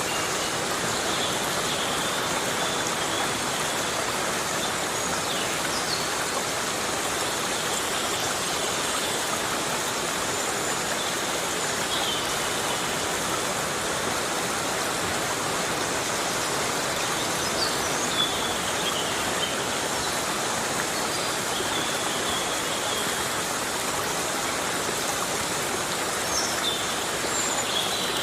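Heavy rain falling steadily in a forest, an even, unbroken hiss of water, with a few faint short high chirps scattered through.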